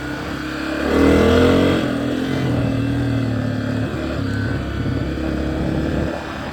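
Dirt bike engine under way, revving up about a second in, then running steadily and easing off near the end.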